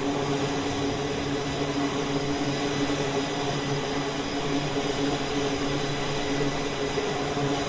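Jet aircraft engine running steadily: a constant roar with a steady whine through it.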